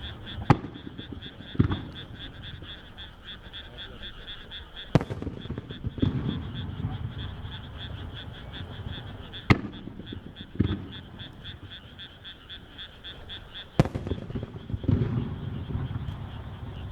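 Firework shells going off one at a time: four sharp bangs, each followed about a second later by a lower rolling boom. Frogs croak steadily underneath in a fast, even pulsing.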